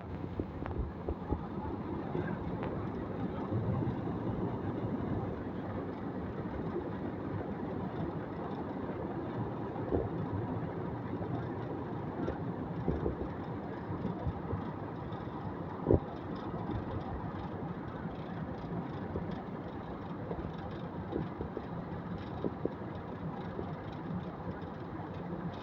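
Airplane takeoff noise: a steady rumble of engines and wheels on the runway, with a few short knocks along the way.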